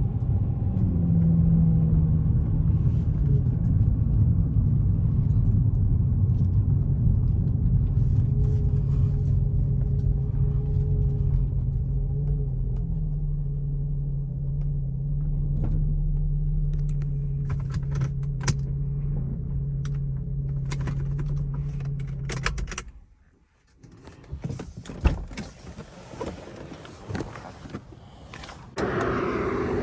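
Infiniti G35's VQ35DE V6 running steadily through an exhaust made louder by gutted catalytic converters, a low rumble that stops suddenly about 23 seconds in. Scattered clicks and knocks follow.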